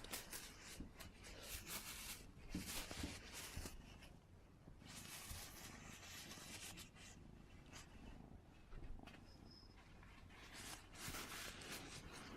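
A tissue rustling and crinkling as a cat plays with it, in faint, irregular bursts.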